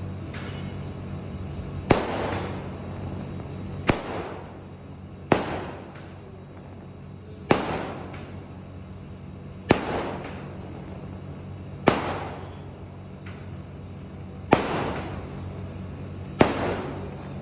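Fireworks going off: eight sharp bangs, each about two seconds apart, each trailing off in a short fading echo. A low steady hum runs underneath.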